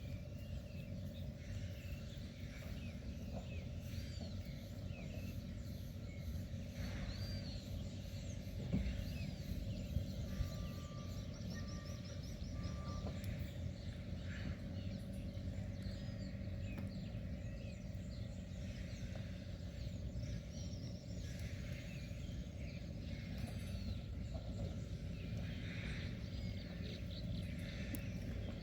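Outdoor ambience: birds calling with many short arching chirps over a steady low rumble, with a couple of soft knocks about a third of the way through.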